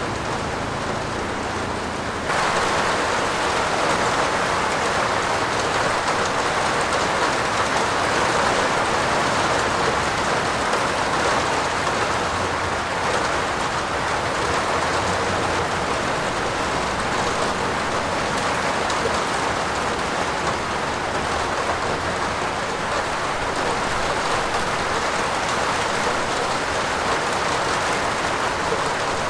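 Heavy rain falling steadily on a roof, a dense even hiss. About two seconds in it steps up suddenly, louder and brighter, then holds steady.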